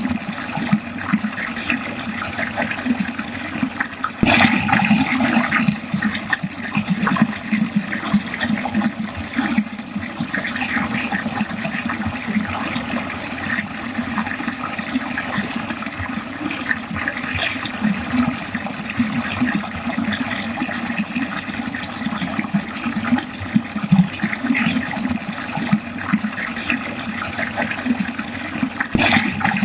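Water draining continuously down a drain in a steady, fluttering splashing flow, briefly louder from about four seconds in.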